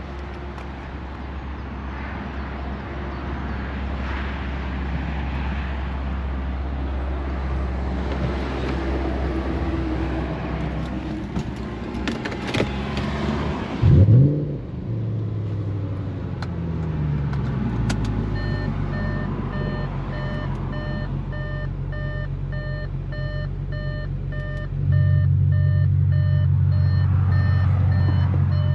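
Audi RS4 B8's straight-piped 4.2 FSI V8 starting about halfway through: a short loud flare, then the revs falling back over a few seconds to a steady idle, which grows louder a few seconds before the end. Before the start there is a steady low hum, and evenly repeating electronic beeps sound over the idle.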